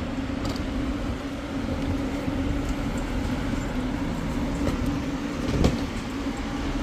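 Passenger train running between airport terminals, heard from inside the carriage: a steady hum over low rumble, with a single knock a little after halfway.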